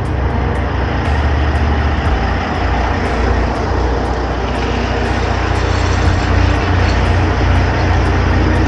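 Heavy truck running, a 2005 Kenworth T800: a steady, loud, deep engine drone under a wash of road and cab noise.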